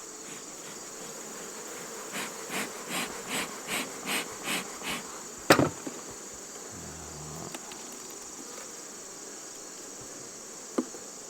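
Honey bees buzzing around an open hive, over a steady high insect chirring. About two seconds in comes a run of roughly eight short, evenly spaced noises, about three a second. A sharp click follows a little past the middle.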